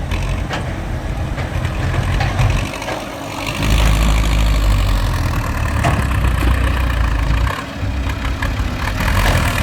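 Heavy diesel engine of earthmoving machinery at a road-building site, running continuously. It rises to a louder, heavier rumble from about a third of the way in, drops briefly past the middle and picks up again near the end, as the machine takes on and eases off load while moving soil.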